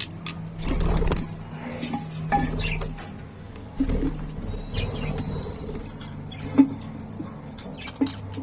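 Budgies in a cage or nest box: scattered short chirps, rustling and wing flutters over a steady low hum.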